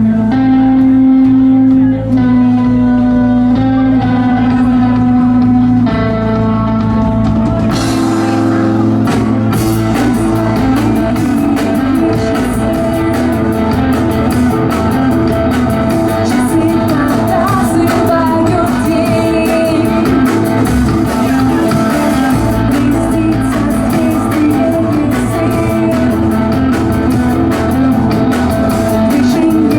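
Amplified band playing live: long held guitar notes for the first few seconds, then the drums and the full band come in about eight seconds in and play on with a steady beat.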